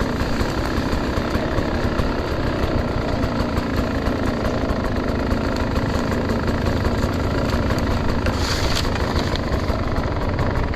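Enduro dirt bike engine running steadily at low revs, with a brief sharper noise about eight and a half seconds in.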